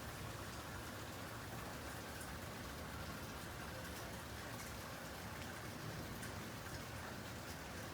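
Steady rain falling during a thunderstorm, with scattered drops ticking on surfaces.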